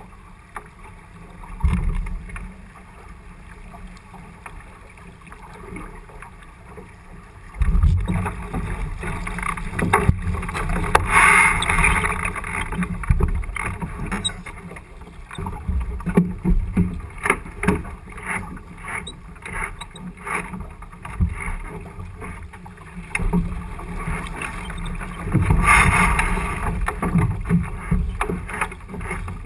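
Wind and water noise aboard a J80 sailboat under way, a rushing haze that grows much louder and gustier about a quarter of the way in, with scattered knocks and clatter.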